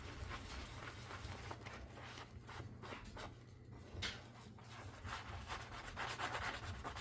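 Dishes being scrubbed by hand with a sponge: an irregular run of rubbing strokes, with a short sharp knock about four seconds in.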